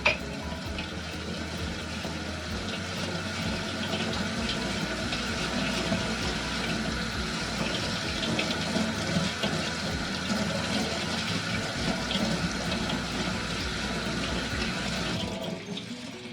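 Water running steadily from a tap into a sink, starting with a click and stopping shortly before the end.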